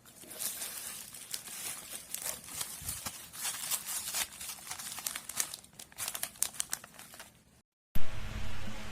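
Plastic packaging crinkling and crackling as it is handled, with many small irregular clicks. It stops near the end, and a sudden louder steady hum starts.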